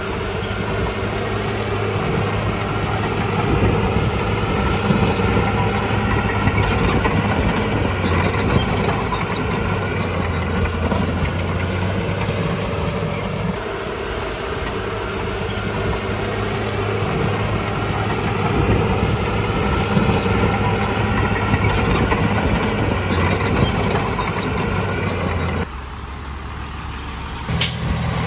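Komatsu bulldozer's diesel engine running steadily with a few sharp metallic clanks. The sound drops off briefly near the end, then picks up again.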